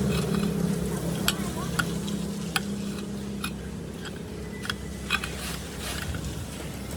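A steady machine hum that fades slowly, with scattered sharp clicks and taps over it.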